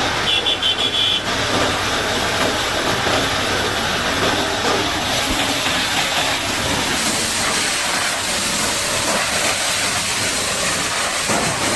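High-pressure water spray washing down a bulldozer, a steady loud hiss. A short run of rapid high beeps sounds about half a second in.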